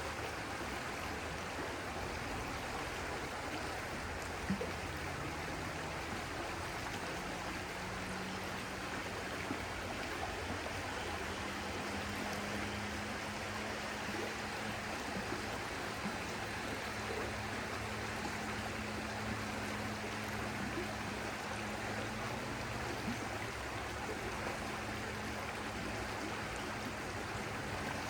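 Stream water flowing steadily, an even rushing babble, with a faint low hum underneath and a single small click about four and a half seconds in.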